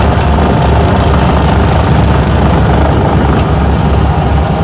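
Light airplane's piston engine and propeller running steadily at low power during the rollout after landing, with a thin high whine that stops about three seconds in.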